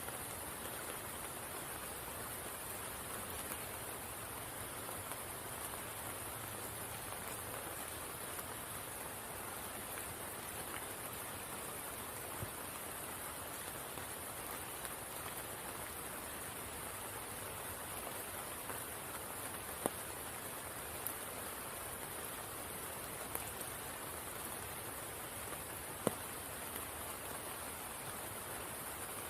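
Steady rain falling on a spring pool and the leaves around it, an even patter with a high steady hiss over it. A few single, louder drop taps come in the second half.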